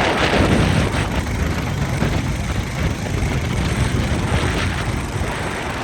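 Motorcycle running on the move, a steady noisy rumble.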